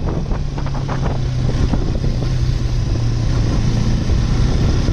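Motorcycle engine running steadily at speed, holding an even pitch, with wind rushing over the microphone.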